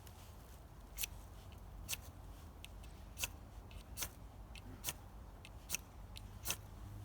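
A series of about seven sharp clicks or snaps, spaced under a second apart, over a faint steady background.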